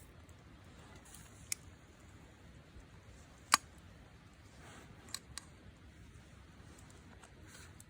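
Quiet background with four short, sharp clicks or taps: one about a second and a half in, a much louder one about three and a half seconds in, and a quick pair a little after five seconds.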